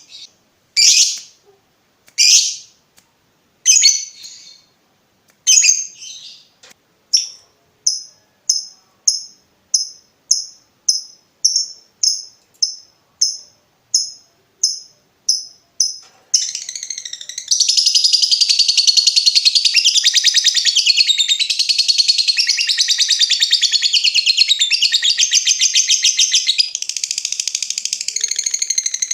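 Lovebird calling: a few separate sharp chirps give way to a run of short ticking notes about two a second ("ngetik"). About halfway through, it breaks into a long, unbroken rapid chattering trill ("ngekek panjang").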